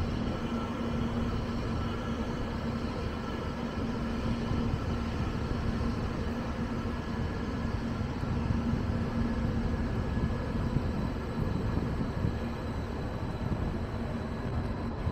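Steady rumbling train noise with a constant low hum and no distinct events.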